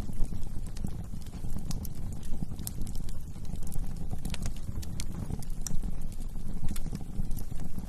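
Wood fire burning in a fireplace: irregular sharp crackles and pops of burning wood over a steady low rumble of the flames.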